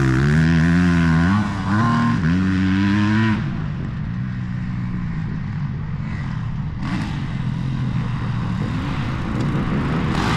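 Motocross dirt bike engine revving hard close by, its pitch rising and falling through gear changes with a short throttle chop, then cutting away after about three seconds to the steadier sound of bikes running further off on the track.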